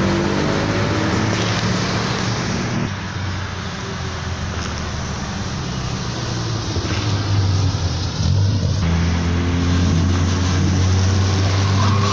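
A vehicle engine running, its pitch gliding up and down a little. It eases off about three seconds in and is loud again from about seven seconds in.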